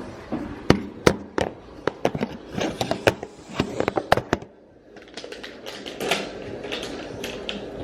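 Plastic packaging being handled and opened: irregular crinkles and sharp clicks, dying away briefly about four and a half seconds in, then softer scattered crackles.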